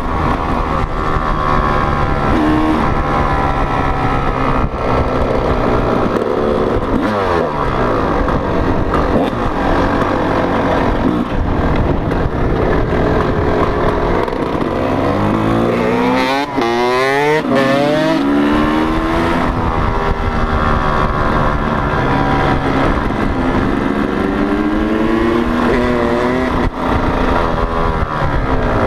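Motocross bike engines running, the pitch repeatedly rising and falling as the throttle is opened and closed. About halfway through comes a sharp run of quick rising revs and drops, like a bike accelerating hard through the gears.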